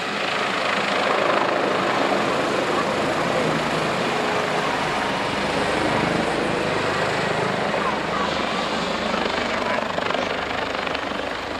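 Airbus H145M military helicopter flying past, with a steady rush of rotor and twin-turbine noise.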